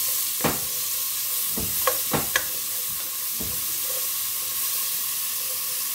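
Chopped onion and garlic sizzling in a hot pan. A spatula stirs them, scraping and knocking against the pan about half a dozen times in the first few seconds.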